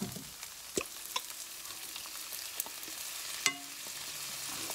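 Sliced onions frying in a hot skillet with a steady sizzle, and a few light clicks.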